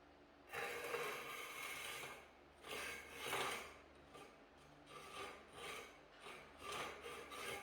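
Repeated rasping, scraping strokes of a hand tool working a rough surface, about eight uneven strokes starting about half a second in.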